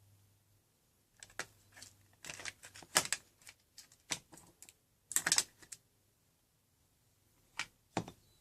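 A series of irregular clicks and knocks, some in quick clusters, with two single clicks near the end.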